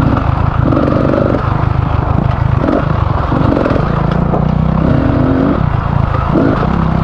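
Beta 300 RR two-stroke enduro motorcycle engine running hard on a trail ride, its revs rising and falling every second or so.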